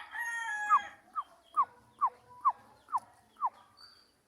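A rooster's crow ends about a second in, followed by a series of seven short, falling whistled bird calls, about two a second.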